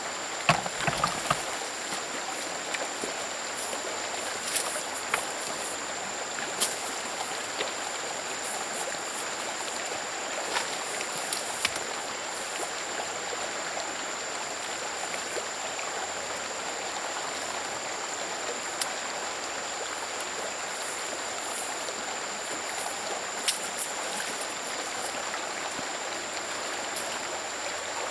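A stream flowing steadily, with a faint steady high-pitched tone above it. Scattered short knocks and clicks, several in the first two seconds, then single ones here and there.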